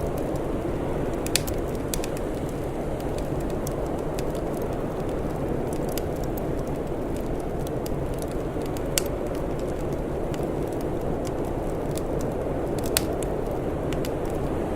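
Wood fire crackling, with scattered small snaps and three louder pops, over a steady low rumble.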